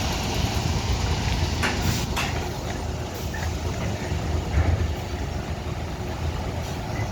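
Large bus diesel engine running with a steady low rumble, with two short knocks about two seconds in.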